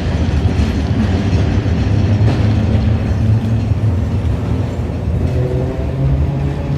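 Hiroshima Electric Railway 650-type tram No. 652 running, heard from inside the car: a steady, low rumble of the running gear and wheels on the rails. A faint whine comes in about five seconds in.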